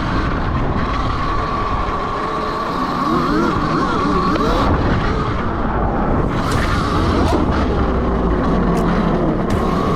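Electric dirt bike motor whining as the bike is ridden, its pitch rising and falling with speed, over steady wind and tyre rumble.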